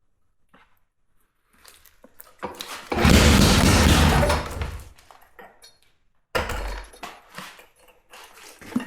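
Atlas Copco Cobra petrol rock drill clattering in short loud bursts: one about three seconds in lasting about two seconds, a shorter one just after six seconds, with light ticks in between.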